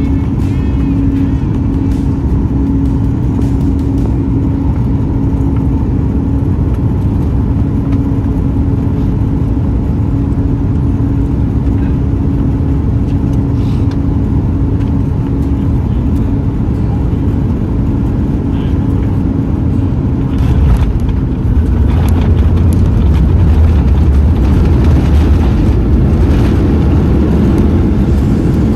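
Inside the cabin of a Boeing 737 MAX 9 airliner: a loud, steady rumble of jet engines and airflow with a steady hum, growing louder about 21 seconds in.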